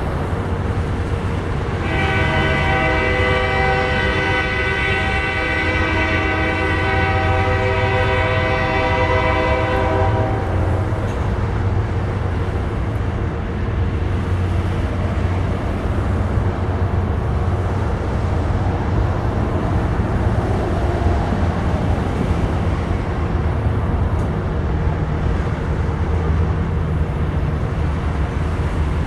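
BNSF freight train passing with a steady rumble. About two seconds in, the locomotive's multi-chime air horn sounds one long blast of several notes together, lasting about eight seconds before it stops.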